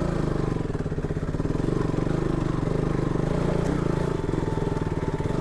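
KTM RC 200 motorcycle's single-cylinder engine running steadily under light throttle on a rough trail, its firing pulses quick and even.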